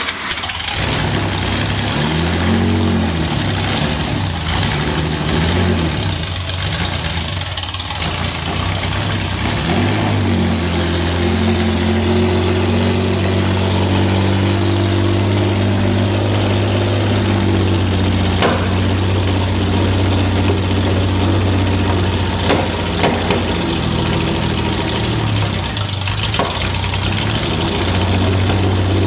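Porsche 906 racing engine running just after its first start in many years: it is blipped up and down several times in the first ten seconds, then settles into a steady idle with one brief blip near the end.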